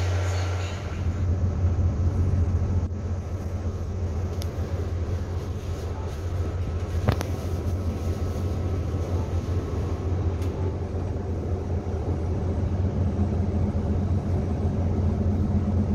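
Steady low hum and rumble inside a passenger train car, with a single sharp click about seven seconds in.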